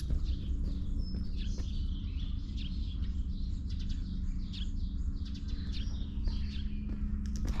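Small birds chirping and twittering in many quick, short calls, over a steady low rumble.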